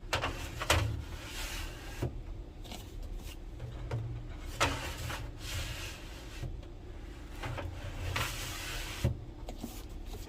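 Irregular knocks and clatters with short scraping swishes, like kitchen things being handled and set down, over a steady low hum. The sharpest knocks come just under a second in and again near the end.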